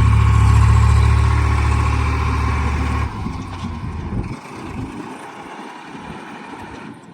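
Heavy diesel machinery running loud and steady with a deep engine hum. The hum drops away abruptly about three seconds in, leaving quieter engine noise with scattered knocks and rattles.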